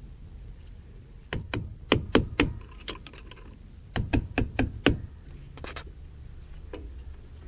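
Sharp knocks and clicks of tools against drum brake hardware during reassembly. They come in two quick runs of about five strikes each, the first about a second and a half in and the second about four seconds in.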